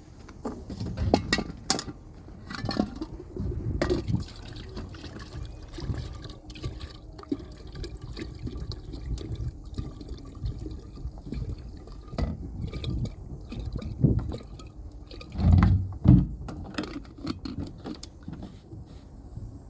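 Water being poured and handled, with scattered knocks and clicks throughout and two louder thuds near the end.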